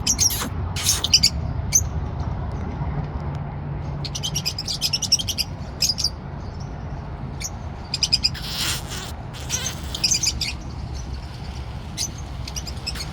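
Parrot calls: short, sharp, high-pitched chirps and squawks scattered through, with a quick chattering run about four seconds in and a louder call near the middle.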